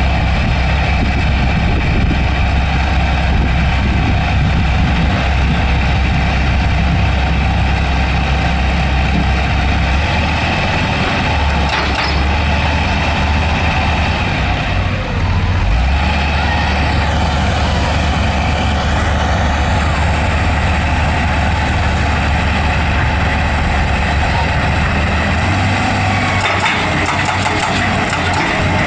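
Excavator's diesel engine running steadily, with its note shifting briefly about halfway through.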